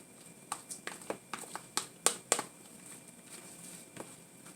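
A utensil clicking against a bowl while stirring a thick egg and cheese mixture: a string of light, irregular clicks over the first two and a half seconds, then one more near the end.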